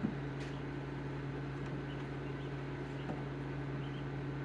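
Steady hum of a dome egg incubator's fan and heater, with a few faint high peeps from the hatchlings inside and a light tick or two.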